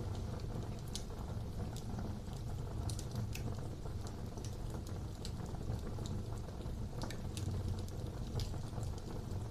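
Fire burning in a fireplace: a steady low rumble of flames with scattered sharp crackles and pops at irregular moments.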